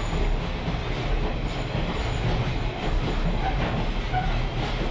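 Railroad caboose rolling along the track: a steady low rumble of steel wheels on rail, with a few faint clicks.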